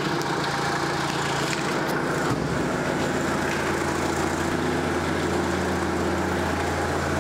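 Car engine idling steadily, with a slight change in its note a couple of times.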